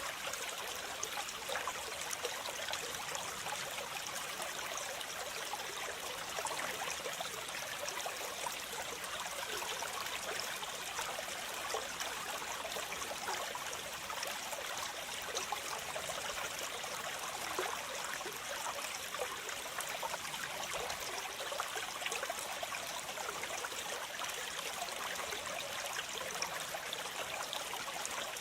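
Water falling and splashing continuously, a steady rush thick with small splashes and trickles and little low rumble.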